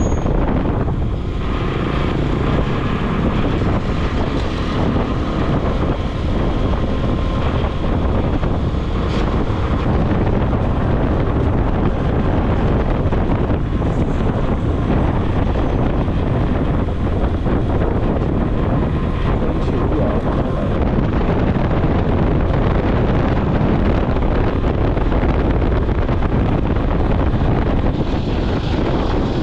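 Steady wind rush on an action-camera microphone while riding a motorcycle, with the motorbike's running noise underneath.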